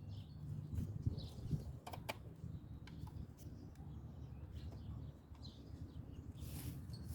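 Light clicks and rustling as nesting scraps are pushed into a wire suet feeder cage, with a few faint bird chirps in the background.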